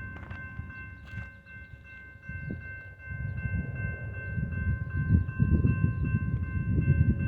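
Union Pacific freight train with GE diesel locomotives approaching. Its low rumble grows louder from about halfway in, under a steady high multi-note ringing tone.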